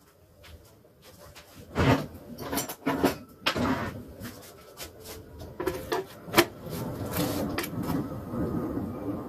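Kitchen clatter: a run of knocks and clicks as things are handled and moved about, loudest about two seconds in and again near six and a half seconds, with a steady low noise coming up from about seven seconds in.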